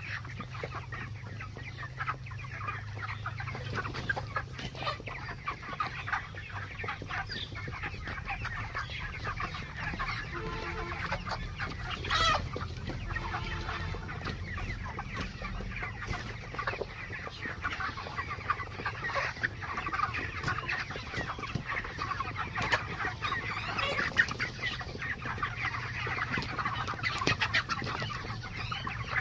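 A large flock of 35-day-old chickens clucking together in a dense, continuous chatter over a steady low hum. One louder call stands out about 12 seconds in.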